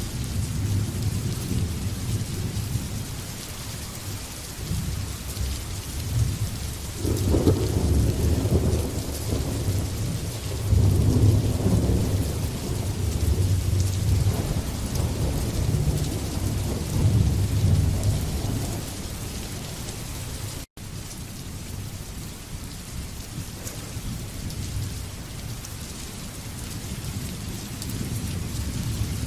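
Steady heavy rain with rolling thunder. Deep rumbles swell about 7 seconds in and again about 11 seconds in, then die away a few seconds before the middle, leaving the rain with only faint rumbling. The sound drops out for an instant a little past the middle.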